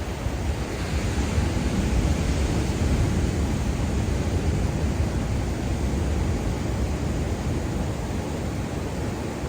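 Ocean waves breaking and washing up a beach: a steady rushing surf, swelling brighter about a second in, with a deep low rumble underneath.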